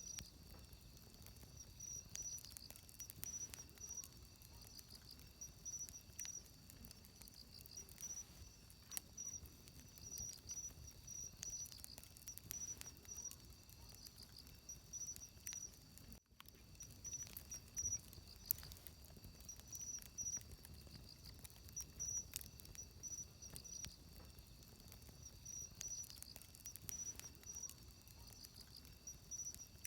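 Faint wood campfire crackling with scattered sharp pops, over steady high-pitched insect chirping in short repeated trills. There is a brief dropout just past halfway.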